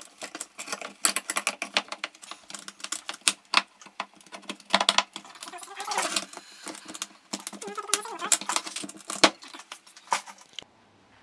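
Irregular clinking and clattering of small metal parts and tools being handled, many sharp clicks in quick succession that stop shortly before the end.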